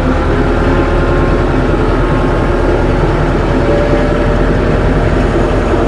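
Tractor engine running steadily under the operator, its note lifting slightly about halfway through.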